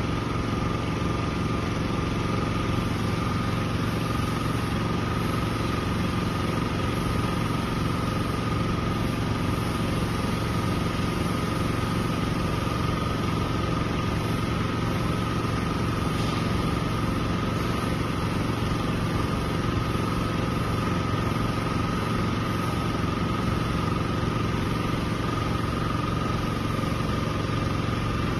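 A small engine running steadily at a constant speed, with a thin steady whine above its hum.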